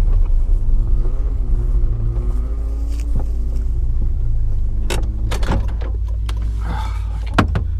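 Car engine idling, a low steady rumble, with a faint wavering whine in the first few seconds and several sharp clicks and knocks in the second half.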